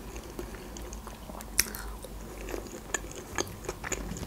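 Close-miked mouth sounds of biting and chewing breaded McDonald's chicken nuggets: scattered short crunchy clicks, the sharpest about one and a half seconds in.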